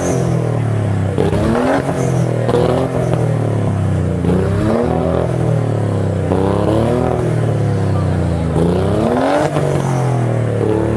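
High-performance car engine revving hard, its pitch climbing and dropping back again several times, over a steady low drone.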